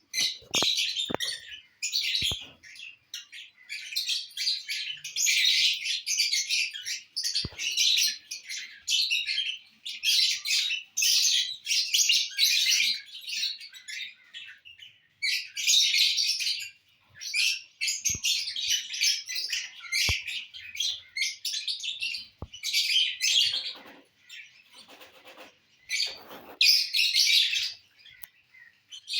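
Pet lovebirds chirping and chattering almost without pause, in rapid high-pitched bursts, with a few short sharp clicks in between.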